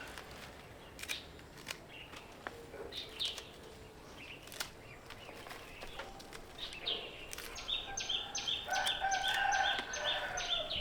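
Scattered light clicks and taps, then a bird calling in a quick run of repeated high chirps, about four a second, over the last three seconds.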